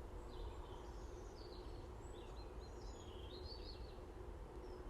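Faint birds chirping and singing, several short rising and falling calls, over a steady low background of outdoor noise.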